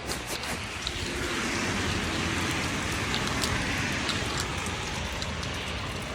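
Steady rain coming down, an even hiss with scattered drops ticking close to the microphone.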